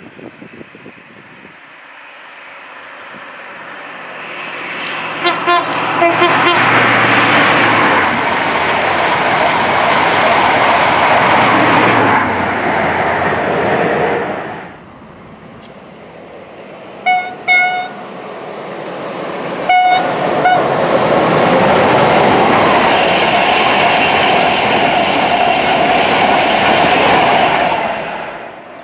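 Two express trains passing at speed one after the other, each a loud rush of wheels and air. Each driver sounds the horn in short toots: a few as the first train arrives about five seconds in, then two quick toots and another pair as the second one comes through.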